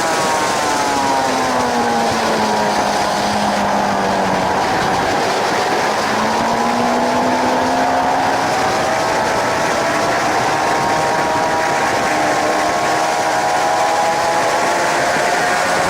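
Suzuki GSX-R 750 K7's inline-four engine heard on board at speed over heavy wind noise. The revs fall over the first few seconds, then climb steadily through the rest as the bike pulls out and accelerates.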